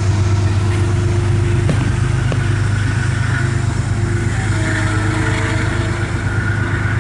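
A steady, loud low hum like a running engine, with two faint pops from the fireworks about two seconds in.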